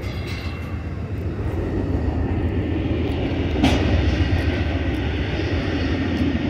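Steady low rumble and hum of a passenger train standing at the platform with its engines and equipment running. There is one sharp knock about three and a half seconds in.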